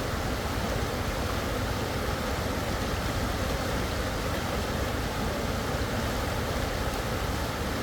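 Rushing creek water flowing steadily over rocks, an even wash of noise with no breaks.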